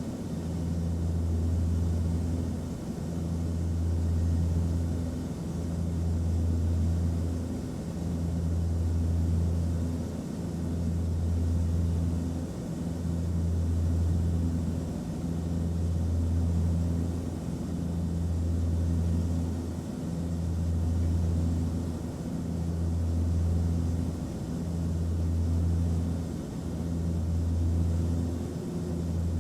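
Steady low drone of an airliner cabin in flight: a deep hum over even rushing air noise. The hum swells and dips in a regular cycle about every two and a half seconds.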